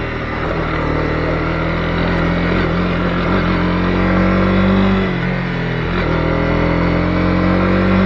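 Honda CB250R single-cylinder engine pulling under acceleration. Its pitch rises, drops sharply at an upshift about five seconds in, then climbs again before another shift at the end.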